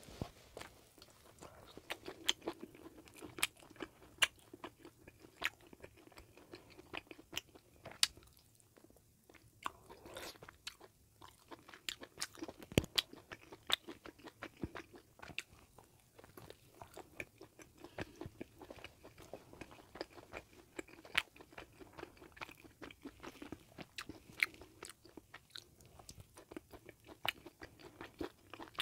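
Close-miked chewing and biting of a sausage-and-cheese bagel sandwich: a dense, continuous run of small wet clicks and crackles from the mouth, with louder bites now and then.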